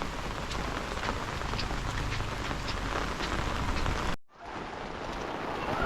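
Heavy rain falling steadily, with scattered individual drops tapping close by. The sound cuts out abruptly for a moment about four seconds in, then the rain noise returns and slowly grows louder.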